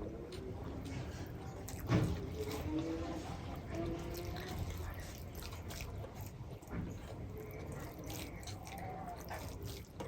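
Close-up eating sounds: wet squishing and small clicks of rice and dal being eaten, with a louder knock about two seconds in and faint voices in the background.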